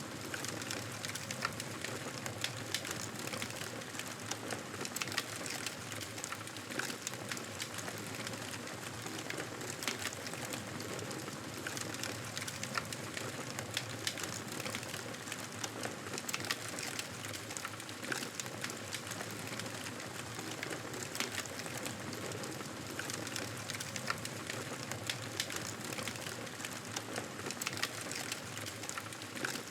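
Campfire crackling: a steady hiss of burning wood with frequent small, irregular pops and snaps.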